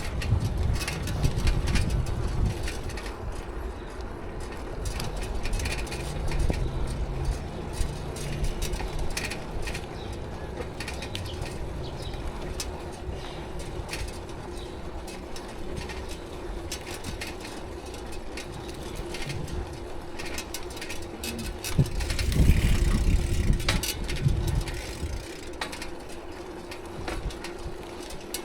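Bicycle riding noise: low rumbling wind on the microphone and road noise, heaviest at the start and again about two-thirds of the way through, with scattered clicks and rattles and a faint steady hum underneath.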